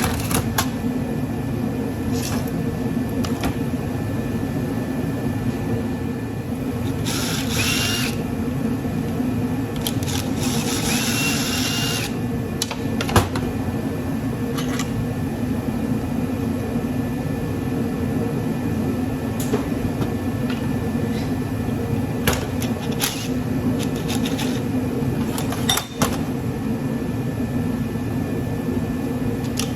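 Power drill or driver whirring in two short runs while taking apart a golf cart charger's case, with scattered sharp metal clicks and clinks of parts over a steady hum.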